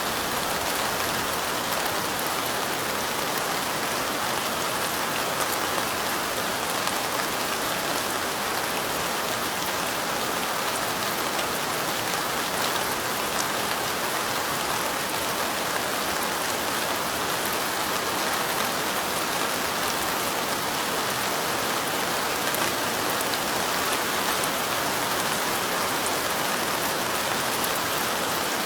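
Steady light rain, an even patter of drops that holds without a break.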